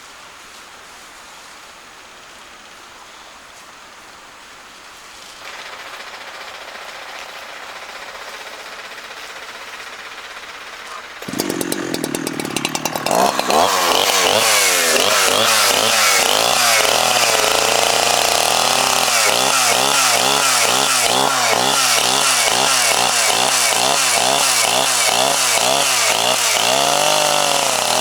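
A chainsaw starts up about a third of the way in and then runs loud, its engine pitch rising and falling over and over as it is revved.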